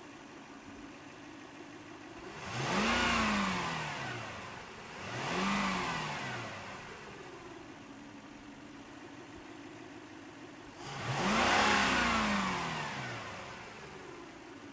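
Toyota Celsior's 1UZ-FE V8 idling and blipped three times: the revs climb and fall straight back each time, about two and a half seconds in, again about five seconds in, and a third, longer time near eleven seconds in.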